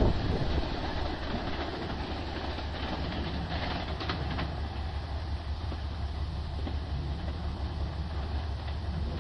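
381 series limited express electric train running away down the track, its rumble falling off at first and then holding steady, with a few faint clicks of wheels over rail joints about four seconds in.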